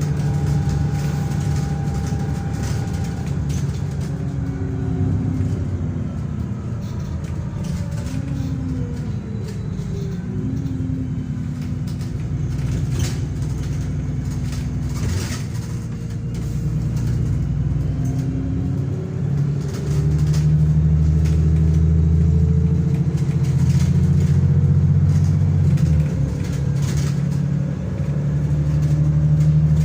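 Diesel engine of a Wright Pulsar Gemini 2 / VDL DB300 double-decker bus being worked hard. Its pitch rises and falls as it goes through the gears, and it runs louder and heavier over the second half.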